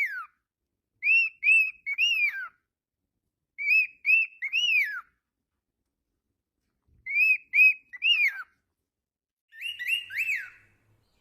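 Cockatiel whistling a short phrase of two quick arched notes and a longer note that falls away in pitch. The phrase comes four times with pauses between.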